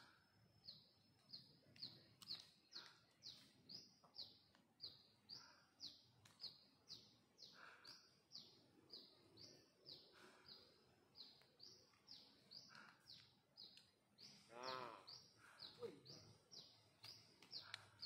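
Faint, steady series of short high bird chirps, about two to three a second, each dropping slightly in pitch. A brief lower call that wavers up and down comes in about three-quarters of the way through.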